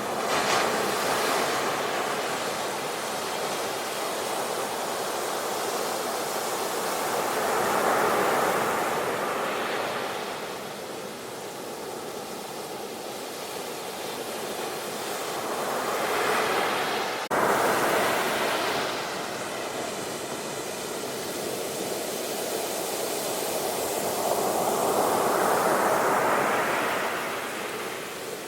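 Sea waves breaking and washing up a shore, each surge swelling and falling away about every eight seconds. A little past halfway the sound jumps abruptly louder.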